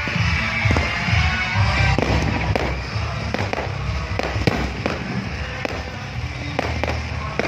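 Aerial fireworks going off: a rapid run of sharp bangs and crackling pops, several a second, over a continuous low rumble.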